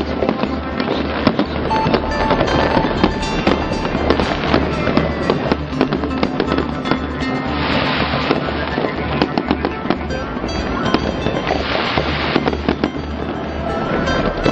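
Aerial fireworks display: a continuous dense crackle of bursts, with heavier flurries about halfway through, again a few seconds later, and near the end. Music plays along throughout.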